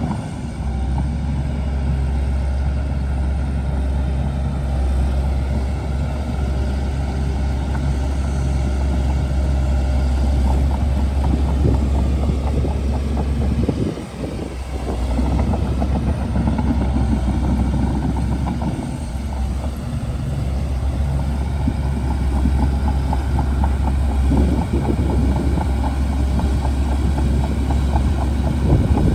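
Shantui DH17C2 bulldozer's diesel engine running steadily under work with a deep drone, dipping briefly about halfway through.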